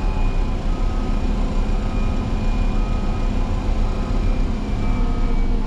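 Motor grader's diesel engine running steadily, a deep continuous rumble with faint higher tones coming and going above it.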